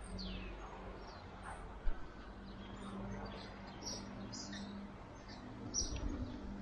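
Small birds chirping in short, high, scattered calls over a steady low hum, with a single brief knock about two seconds in.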